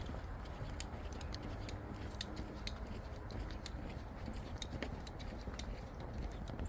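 Outdoor ambience: a steady low rumble, typical of highway traffic heard through the trees, with many scattered sharp ticks and clicks at an irregular pace.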